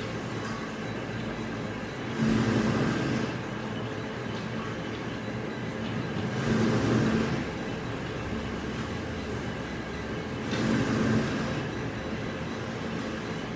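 Machinery running with a steady hum and a few fixed tones, rising to a louder noisy surge about every four seconds, three times.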